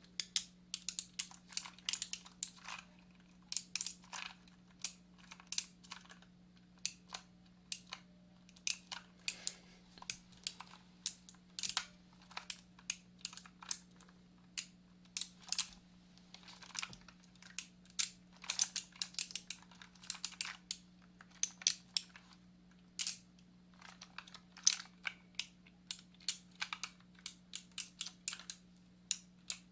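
Typing on a computer keyboard: irregular runs of key clicks, several a second, over a steady low hum.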